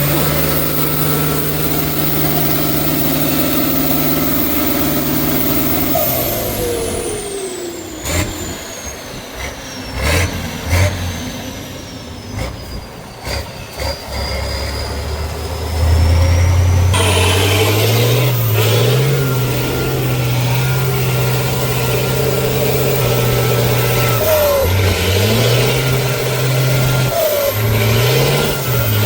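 Heavy off-road trial truck engine working under load. Its revs fall away about six seconds in, and a quieter stretch with a few sharp knocks follows. From about halfway the engine runs loud again, its pitch rising and dipping repeatedly as it is revved.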